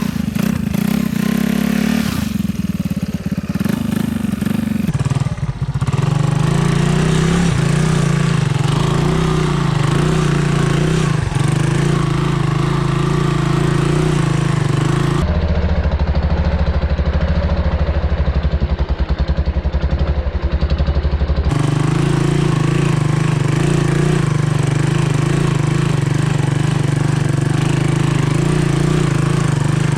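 Honda ATC 200M three-wheeler's single-cylinder four-stroke engine running steadily at low revs, dropping lower about five seconds in. From about fifteen to twenty-one seconds the sound turns duller and deeper, then returns to its earlier note.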